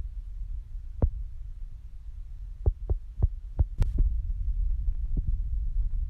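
Wood fire burning in a suspended fireplace: a steady low rumble with scattered sharp crackles and pops, a quick cluster of them just before the middle.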